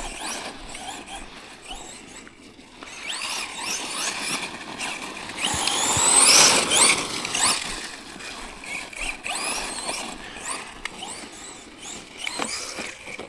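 Electric RC monster truck driving over rocks: its motor whines up and down in pitch with the throttle, over the rattle and crunch of tyres on stones, loudest in a long burst about six seconds in.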